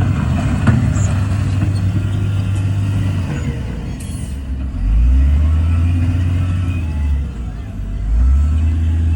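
Heavy diesel engine of earthmoving machinery working under load. Its low drone swells three times: up to about 3 s in, again from about 5 to 7 s, and again near the end.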